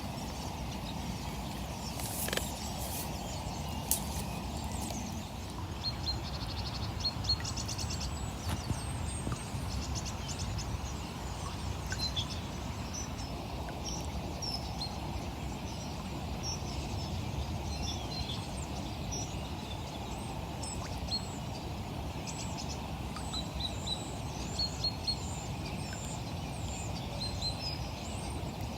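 Small birds chirping and trilling over and over, above a steady low outdoor rumble. A few sharp clicks come in the first few seconds.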